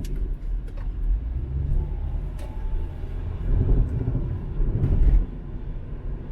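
Inside a moving car: a steady low rumble of engine and tyres on the road, swelling a little about four and five seconds in, with a few scattered light clicks.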